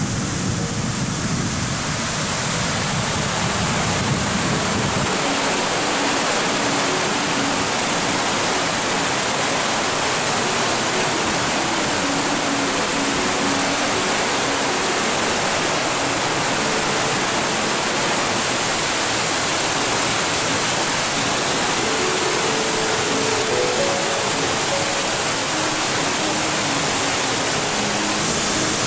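Waterfall, most likely Yudaki's cascade down its lava-rock wall, giving a loud, steady rush of falling water.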